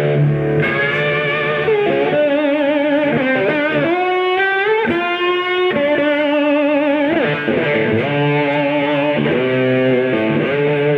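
Electric guitar playing slow blues, its sustained lead notes wavering with vibrato and sliding in bends. A bass line played on a seven-string guitar holds low notes underneath.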